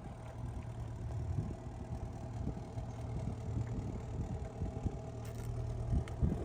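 2011 Chevrolet Camaro SS's 6.2-litre V8 idling steadily, with a few short low thumps over it.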